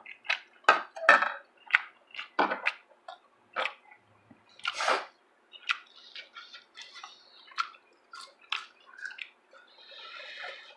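Wet mouth sounds of eating: irregular short smacks and clicks of chewing, with a longer smacking sound about five seconds in.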